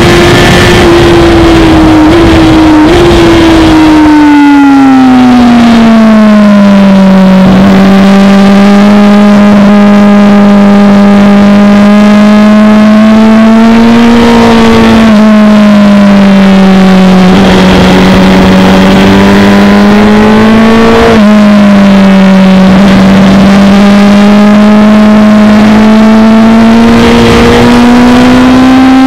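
Honda CBR1000RR (SC77) inline-four engine, recorded on board the moving bike at circuit speed. Its note falls over the first few seconds, then holds at a fairly steady pitch for long stretches, with short sudden dips about a third, halfway and two-thirds of the way through.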